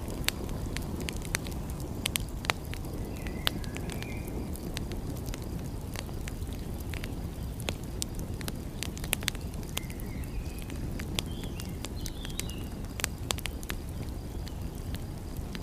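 Wood fire crackling, with frequent sharp irregular pops over a steady low rumble. A few faint short chirps are heard now and then.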